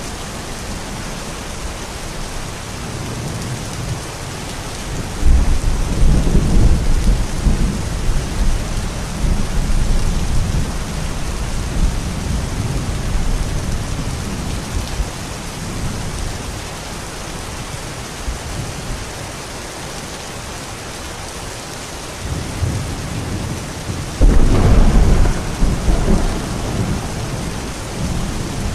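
Steady rain hiss with two rolls of thunder: a long low rumble starting about five seconds in, and a second, sharper one starting near the end.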